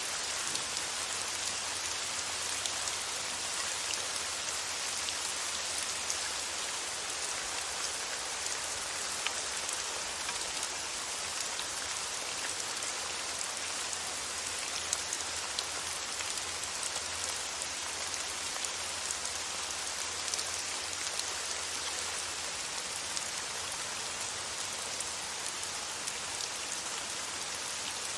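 Steady rain falling, an even hiss of rainfall with scattered light drop ticks.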